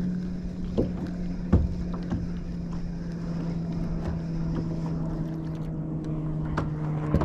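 A motorboat engine drones steadily on the water, its pitch slowly sinking, with a few light knocks and clicks over it.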